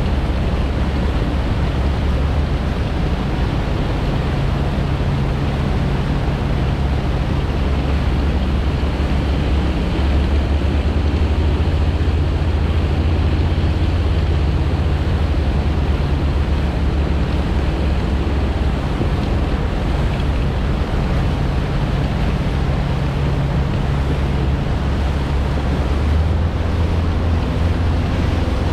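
Steady low engine drone with the rush of water and wind buffeting the microphone, as heard from a moving boat on open water.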